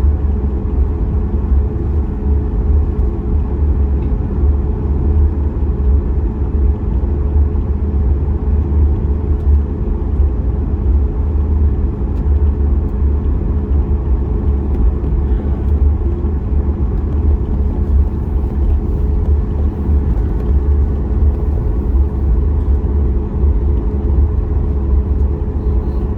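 Steady low rumble of a Boeing 737 MAX 8 taxiing, heard from inside the cabin, with its CFM LEAP-1B engines running near idle and a faint steady hum over the rumble.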